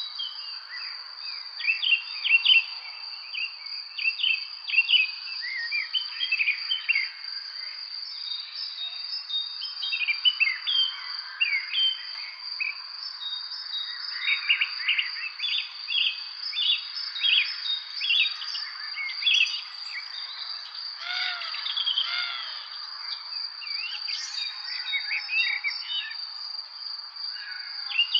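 Birds chirping and singing in many short, varied calls over a continuous high-pitched insect trill.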